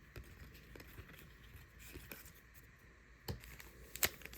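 Quiet handling of trading cards: faint rustles and small clicks as cards are shuffled through by hand, with a couple of sharper clicks near the end.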